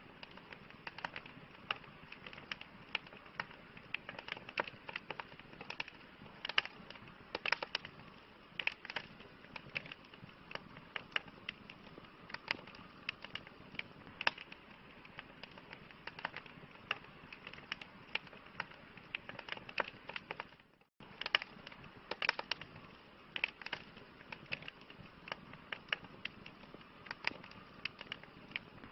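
Wood campfire crackling: irregular sharp pops and snaps, several a second, over a steady soft hiss. The sound drops out for a split second about two-thirds of the way through.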